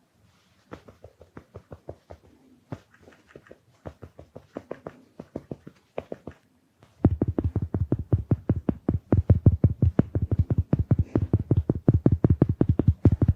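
Makeup sponge being dabbed quickly against the camera lens in a fast series of soft pats, about four or five a second. The pats are faint at first, then much louder and fuller from about seven seconds in.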